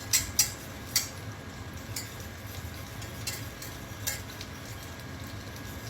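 Oil-and-flour roux being stirred in a pan, the utensil clicking against the pan now and then, loudest in the first second, over a steady sizzle of hot oil.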